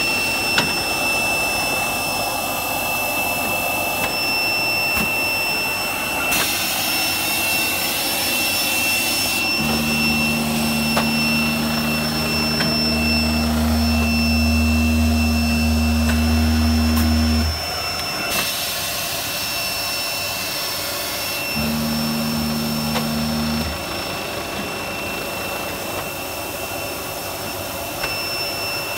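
Pneumatic seed-sowing machine running: a steady blower-like whine with a high whistling tone throughout, and a rush of hiss from about six to nine seconds in. A low hum comes on about ten seconds in, stops suddenly near seventeen seconds, and returns for about two seconds around twenty-two seconds.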